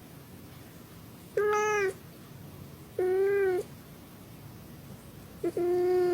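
Domestic cat meowing three times, each call about half a second long and fairly level in pitch, the last one with a short chirp just before it.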